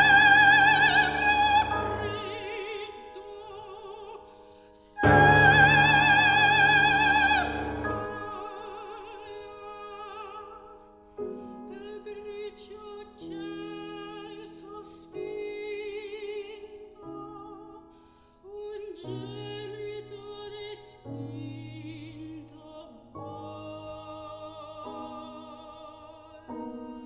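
Soprano singing a classical art song with piano accompaniment. Two loud held high notes with wide vibrato come near the start and about five seconds in, then quieter sung phrases follow over sustained piano chords.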